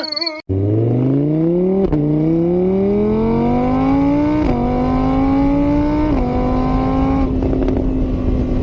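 Car engine accelerating hard through the gears. Its pitch climbs, drops at each of three gear changes, then holds steady at speed.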